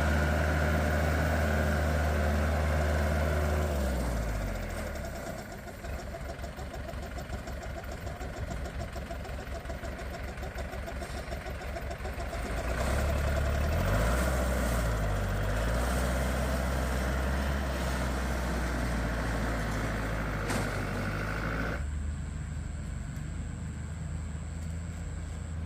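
A small engine running with its speed changing: it drops about 4 s in to a slow, even chugging, picks up again about 13 s in, and then runs steadily.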